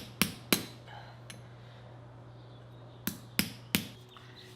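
Hammer striking wood, two blows, then after a pause three more in quick succession.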